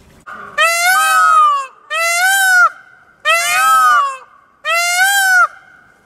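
Indian peafowl (peacock) calling: four loud calls in quick succession, each rising and then falling in pitch.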